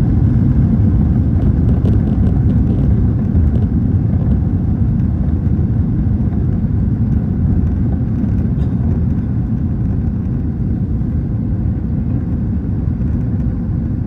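Loud low rumble inside the cabin of an Airbus A321 as the airliner rolls along the ground after landing, easing off slowly.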